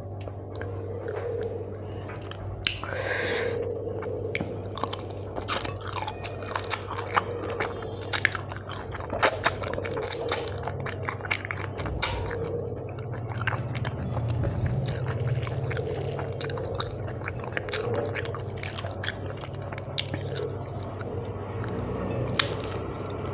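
Close-miked chewing and biting of rice and fish eaten by hand, with many small clicks and crunches from the mouth, over a steady low hum.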